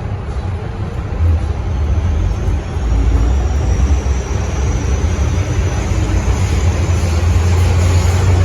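Metro Cammell M-Train electric multiple unit running on the MTR underground line, its rumble growing louder as it gathers speed, with a faint high whine slowly rising in pitch.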